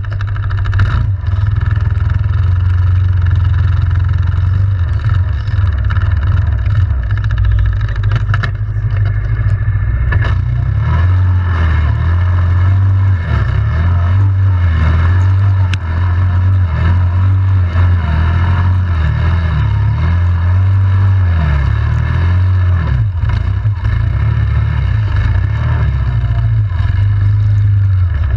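ATV engine running under way, a steady low drone whose pitch rises and falls repeatedly with the throttle through the middle of the stretch, with scattered clatter.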